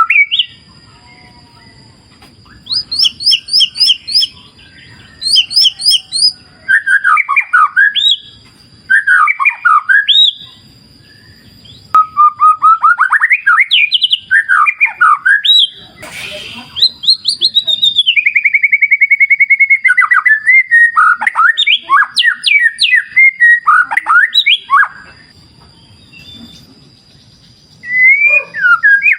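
White-rumped shama (murai batu) singing: loud, varied phrases of sweeping whistles and quick trills broken by short pauses, with a long run of rapid repeated notes past the middle. A thin steady high tone runs underneath.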